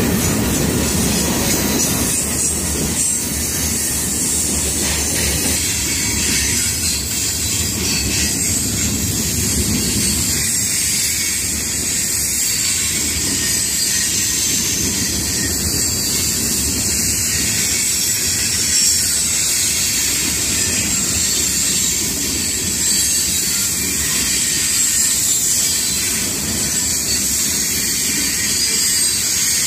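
Freight train cars rolling past: a steady rumble of wheels on rail with a continuous high hiss over it.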